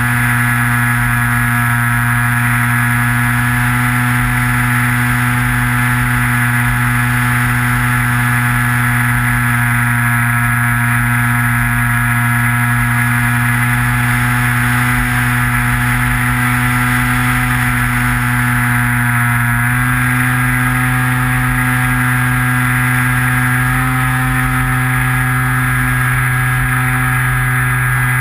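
Electric motor and propeller of a Skywalker FPV model plane, heard from the onboard camera: a steady, even drone with a low wind rumble on the microphone. The pitch shifts slightly about two-thirds of the way through as the throttle changes.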